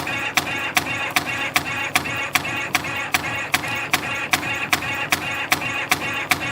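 CNC compression spring coiling machine running, coiling 1.2 mm wire: a steady whir of the feed and coiling with a sharp click about two and a half times a second, the cutter cutting off each finished spring.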